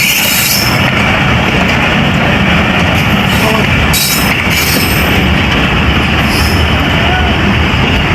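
Pakistan Express passenger train running on the track: a loud, steady rumble of wheels and carriages, with short bursts of high-pitched hiss or squeal several times.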